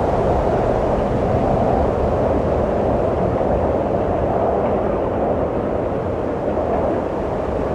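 Steady wind blowing, a continuous low rushing noise that eases slightly in the second half.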